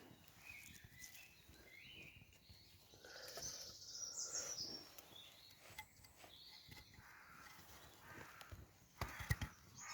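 Faint woodland birds calling on and off, with scattered soft clicks and a cluster of louder knocks near the end.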